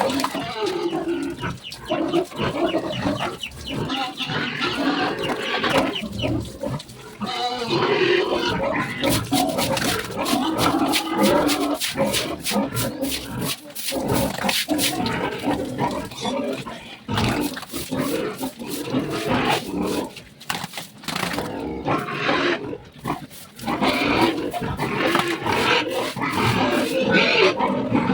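Pigs squealing and grunting loudly and almost without a break, with many short sharp knocks mixed in.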